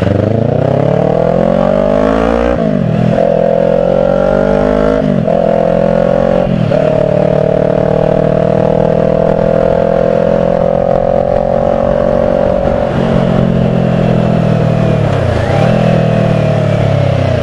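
Kawasaki Ninja 400 parallel-twin engine accelerating hard through the gears, its pitch climbing and falling back at three quick upshifts. It then settles into a steady cruise, with the revs dropping and picking up again twice near the end.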